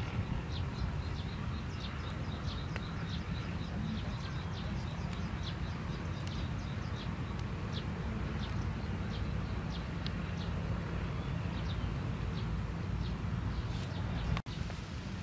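Open-air ambience: a bird chirping over a steady low rumble, its short high chirps coming several a second at first and thinning out after about ten seconds. The sound cuts out for an instant near the end.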